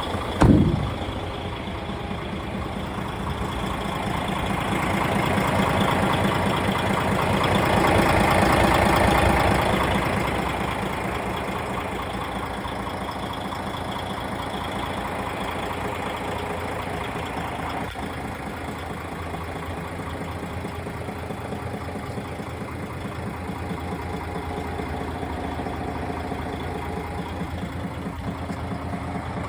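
A DAF XG+ 480 semi-truck's PACCAR MX-13 six-cylinder diesel idling with an even beat. There is a brief loud knock about half a second in, and the sound swells for a few seconds between about five and ten seconds in before settling back to a steady idle.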